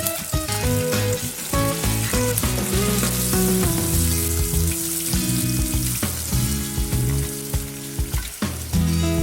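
Food frying in a pan, sizzling steadily, with background music playing over it.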